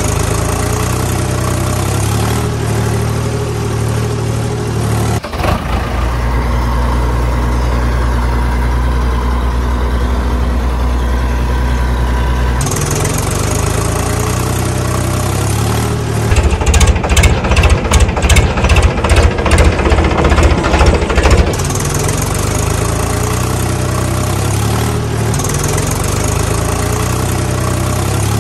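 Added-in engine sound of heavy farm and construction machinery, running steadily and switching abruptly in tone a few times. About halfway through it turns to several seconds of rapid, uneven knocking pulses, then settles back to a steady run.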